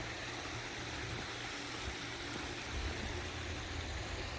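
Steady rush of running water from the backyard pool and spa, with a low rumble underneath.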